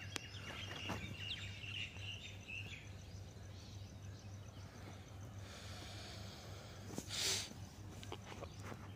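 Faint outdoor ambience: small birds chirping during the first few seconds over a steady low hum, with a short hiss about seven seconds in.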